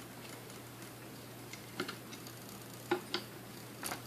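Sunbeam Mixmaster Model 12 stand mixer failing to start when switched on: only a few light clicks from the switch and handling, over a faint steady hum. The motor does not run, a fault the repairer suspects lies in the speed control.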